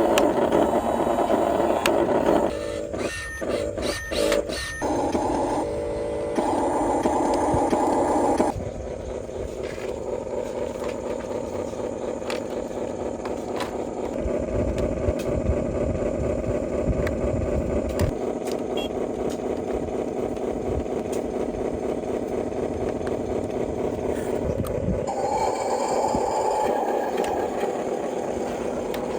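Radio-controlled toy construction vehicles running: a steady mechanical motor sound that cuts in and out briefly a few seconds in, then drops in level about eight seconds in.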